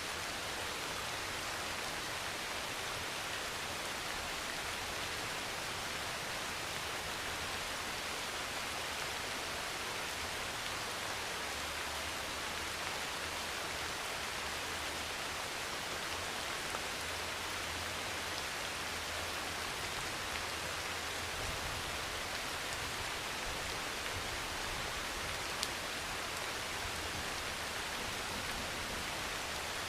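Steady heavy rain pouring on a metal roof, an even, unbroken hiss with a few sharper drop ticks and a faint low rumble partway through.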